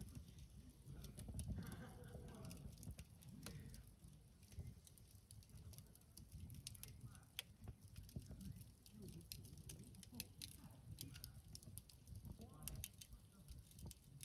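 Wood campfire crackling quietly in a fire pit, with scattered small sharp pops over a low rumble. Faint drawn-out call-like sounds come through about two seconds in and again near the end.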